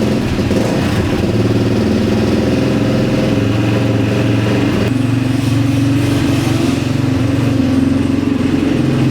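Motorcycle engine running steadily under way, its note stepping up in pitch about five seconds in.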